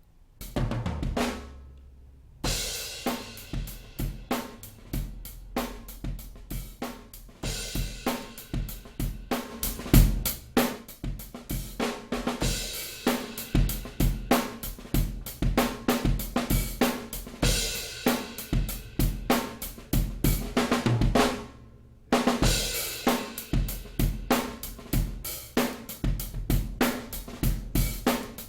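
Multitrack song playing back from a digital audio workstation, led by a full drum kit with a steady beat of kick drum, snare, hi-hats and cymbals. It cuts out briefly about two seconds in and again near the end.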